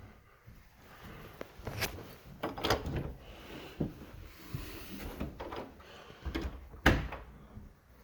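Several separate knocks and clicks of things being handled, such as a door or cupboard, the sharpest and loudest a little before the end.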